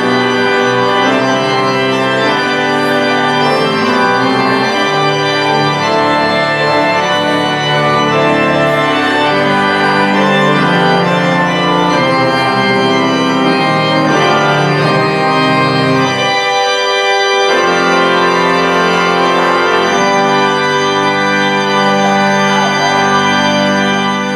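Organ playing full sustained chords, the lowest bass notes dropping out for a moment about two-thirds of the way through.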